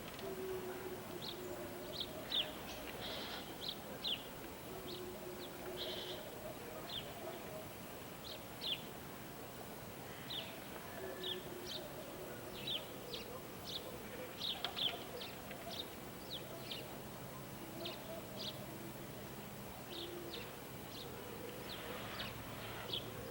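Small birds chirping over and over in quick, high notes, with pigeons giving short low coos every few seconds.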